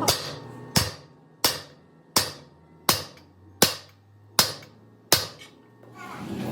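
Eight sharp hammer blows on metal, evenly spaced about three-quarters of a second apart, each ringing briefly.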